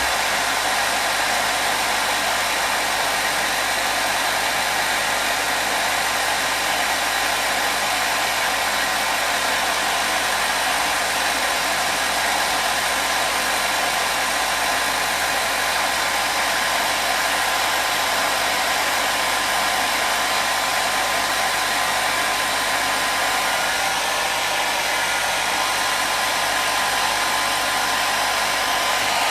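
Hair dryer running steadily: a constant, even rush of air and motor with a faint steady whine in it.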